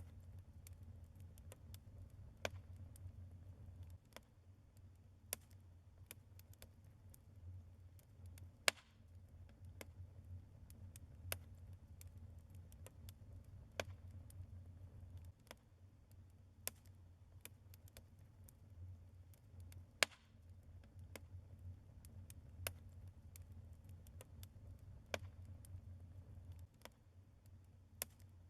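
Wood fire of burning logs crackling in a fireplace: irregular small clicks and snaps with a few sharper pops, the loudest about nine seconds in and about twenty seconds in, over a low steady rumble.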